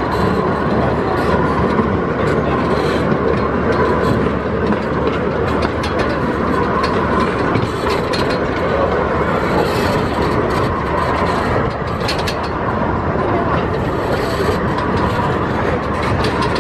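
Ride-along sound of a Chance Morgan amusement-park train running steadily on its track: a continuous rumble with the wheels clicking over the rail joints.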